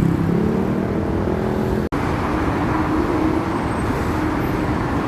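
Steady rumble of street traffic, with a vehicle engine's low hum in the first two seconds. The sound breaks off for an instant near two seconds in, then the rumble carries on evenly.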